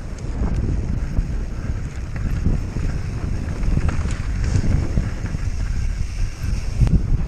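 Wind buffeting a camera microphone at speed on a downhill mountain-bike run, a steady heavy rumble with scattered clicks and knocks from the bike over rough ground.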